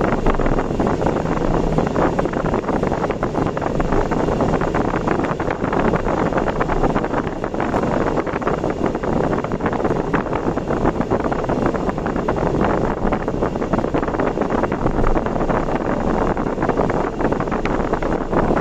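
Steady rush of wind and road noise from a vehicle driving fast on an expressway, with wind buffeting the microphone.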